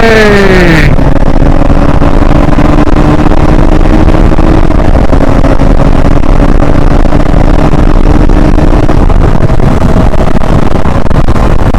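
KTM Duke 160's single-cylinder four-stroke engine pulling along in third gear, holding a steady engine note, with heavy wind rumble on the microphone.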